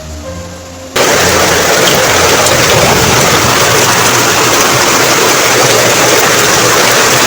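Loud, steady rush of water, heavy rain and flowing floodwater, starting abruptly about a second in, where background music cuts off.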